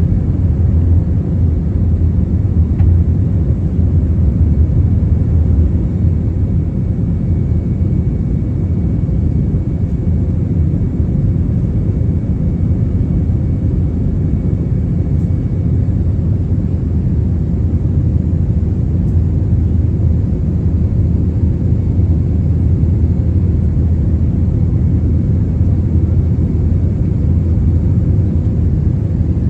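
Steady low rumble of an Airbus A321-200's engines and airflow, heard from inside the passenger cabin.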